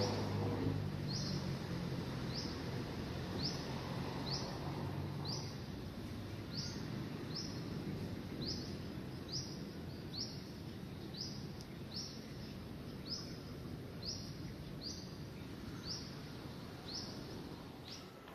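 A bird repeating a short, high chirp about once a second over steady outdoor background noise. A low hum fades out in the first few seconds.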